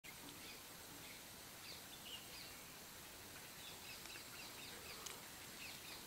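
Faint birds chirping: scattered short calls, some in quick runs, over a low even hiss, with a single small click about five seconds in.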